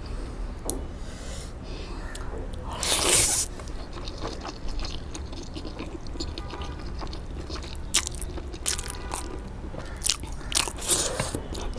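Close-miked eating: biting and chewing with crunches, scattered sharp clicks, and a louder burst about three seconds in.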